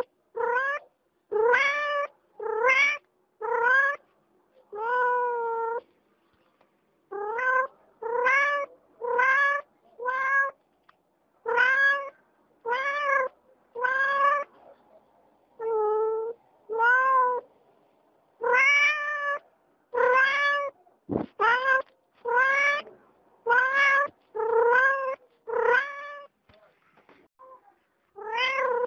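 A cat meowing over and over, about one short meow a second with a few brief pauses, each call rising and then falling in pitch.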